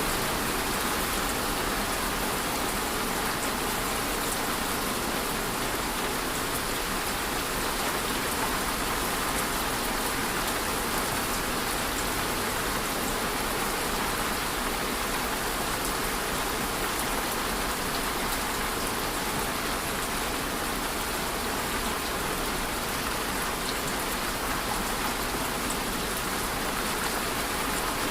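Steady rain falling, an even hiss of many drops with a fine patter, unchanging in strength.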